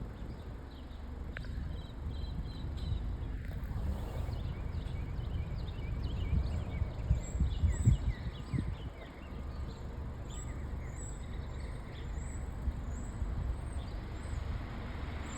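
Outdoor ambience: a steady low rumble under scattered small chirps, joined about halfway through by a high chirp repeating roughly twice a second.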